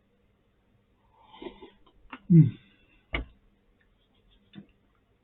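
A man eating instant noodles: a breath and a short hummed "mm" falling in pitch, then a sharp click about three seconds in and a faint tap near the end, typical of a fork against the plastic pot.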